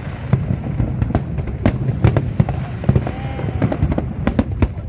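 Aerial fireworks bursting in quick succession: many sharp bangs and crackles, a couple or more each second, over a continuous low rumble of distant detonations.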